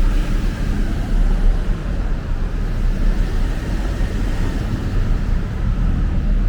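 Steady city traffic: a continuous rumble of car and motorbike engines and tyres on a busy road.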